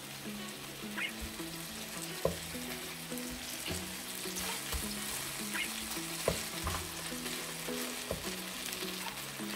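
Beef tteok-galbi patties sizzling in oil in a nonstick frying pan, with a few light taps of a wooden spatula on the pan as they are turned. Soft background music underneath.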